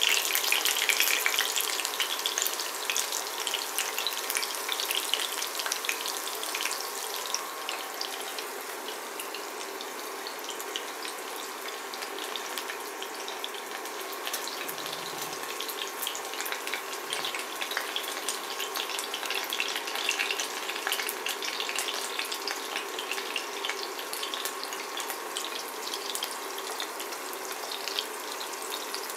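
Breaded chicken nuggets sizzling and crackling in hot vegetable oil in a ceramic pan. The frying is loudest in the first couple of seconds, then settles to a lower, steady sizzle with the pan covered by a glass lid.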